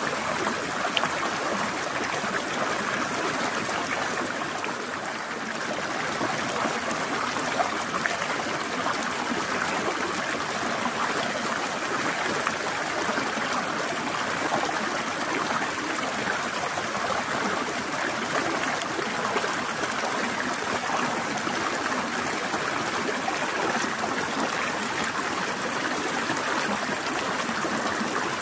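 Forest stream flowing steadily, an even rush of trickling and gurgling water that dips slightly in level about five seconds in.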